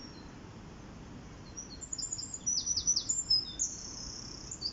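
A songbird singing: a run of high, quick chirps and short rattling trills that starts about a second and a half in. Underneath is a steady low rush of river water.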